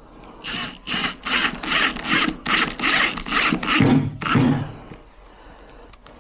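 A hand tool working on a door lock: about nine quick rasping strokes, two or three a second, with a couple of low knocks about four seconds in.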